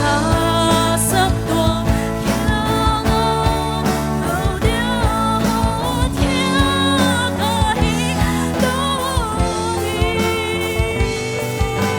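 Gospel song performance: voices singing over instrumental accompaniment with sustained chords and a drum beat.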